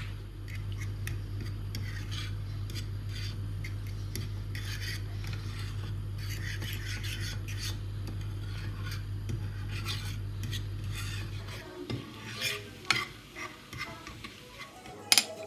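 Kitchen utensils and dishes being handled: repeated scraping and rubbing strokes, then sharper clicks and knocks in the last few seconds. A steady low hum underneath stops suddenly about three-quarters of the way through.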